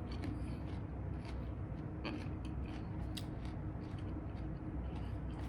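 Crunchy chewing of a chicken wing with a crisp crushed Flamin' Hot Cheetos and Doritos coating, heard close up as scattered crackles over a steady low hum.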